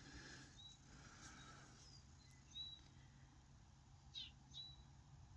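Near silence: quiet room tone with a few faint, short high chirps.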